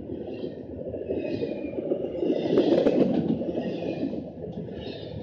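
A train rolling past close by: a steady heavy rumble of wheels on the rails, with high squeals that come and go about once a second.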